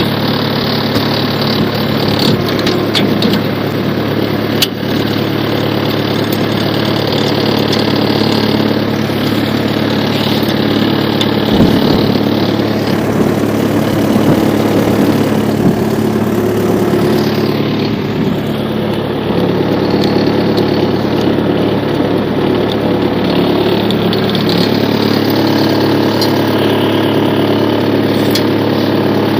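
Homemade mini-tractor's diesel engine running steadily.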